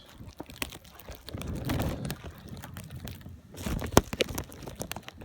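Crunching in deep snow, in two swells, with scattered clicks and a single sharp knock about four seconds in.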